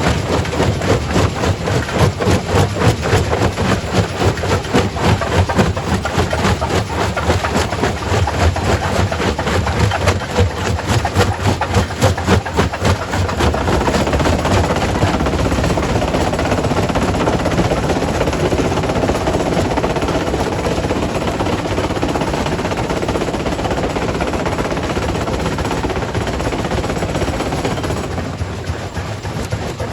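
Quarry primary rock crusher breaking stone: a dense run of rapid cracks and knocks for roughly the first thirteen seconds, then a steadier continuous noise of the crusher running, easing a little near the end.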